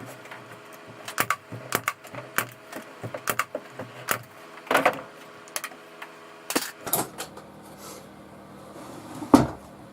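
An irregular run of sharp clicks and knocks, several a second at first, with louder knocks about five and seven seconds in and a heavier knock near the end: tools and pine pieces being handled on a workbench.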